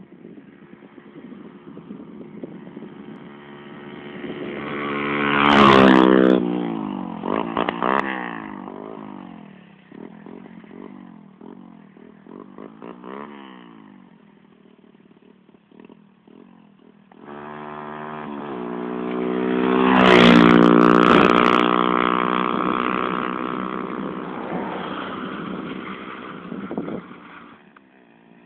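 125 cc dirt bike engine revving hard and changing pitch as it rides past, loudest about six seconds in. It builds to a second, longer loud pass around twenty seconds in and fades away near the end.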